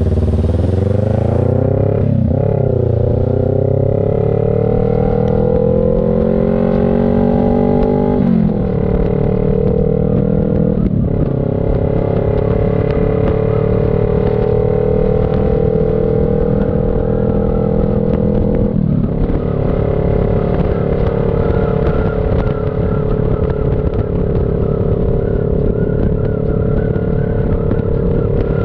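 CFMoto NK400 parallel-twin engine pulling through the gears: the engine note climbs and drops four times as the rider shifts up, then settles into a steady cruise for the last several seconds.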